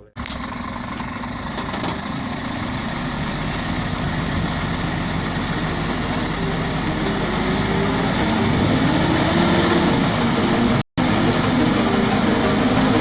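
Scania XT 540 truck's 13-litre straight-six diesel engine running steadily, getting gradually louder; the sound cuts out for a split second once near the end.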